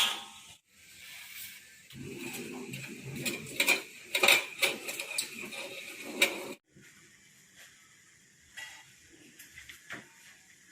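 Metal motorcycle parts being handled and worked with tools: clicks, knocks and scraping, which stop abruptly a little past halfway and give way to a few faint, scattered clicks.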